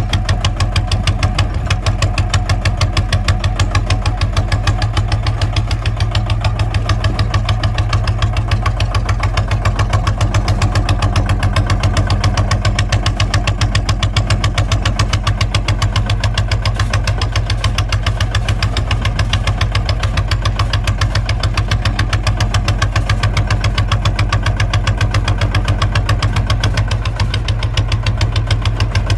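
Kubota ZT 155 walking tractor's single-cylinder diesel engine running steadily, with a rapid, even knock on every firing stroke.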